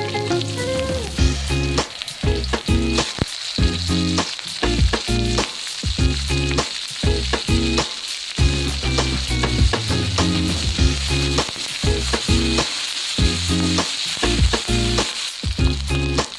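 Kwetiau noodles frying in oil in a pan, sizzling steadily, with a spatula clicking and scraping against the pan many times as they are stir-fried.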